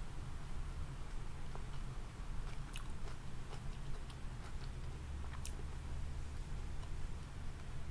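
A person chewing a mouthful of food with lips closed, with a few faint mouth clicks around three seconds in and again about halfway through, over a steady low hum.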